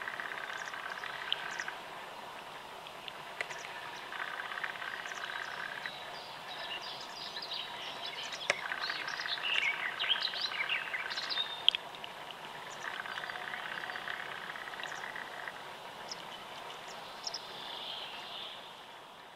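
Wild birds calling and singing: a steady trill comes in bouts of about two seconds, repeated several times, and in the middle a burst of varied higher chirps and song notes.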